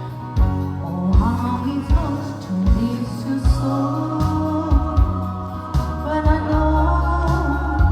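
A singer holding long, wavering notes in an English-language pop song over backing music with a steady low beat.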